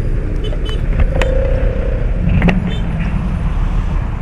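Vehicle engines in slow, jammed road traffic under heavy rain, a steady low rumble with the hiss of rain over it and a few short clicks.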